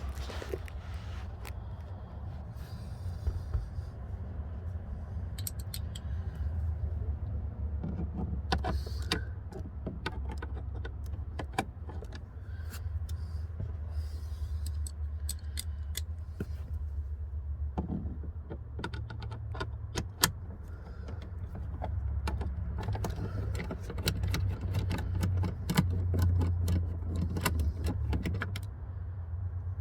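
Irregular clicks, taps and small metallic rattles of hand tools and plastic trim fasteners as the lower dash panel of a BMW 3 Series F30 is unfastened, over a steady low rumble.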